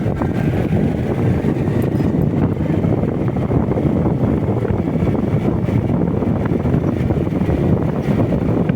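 Riding wind buffeting the microphone over the steady running of a motorcycle on the move.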